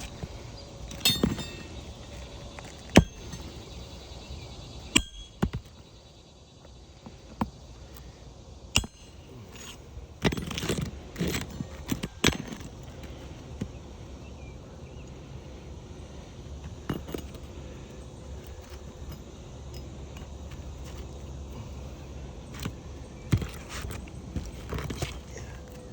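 Irregular sharp clicks, taps and scrapes of a metal bar working asphalt shingles, with a busier run of them about ten seconds in.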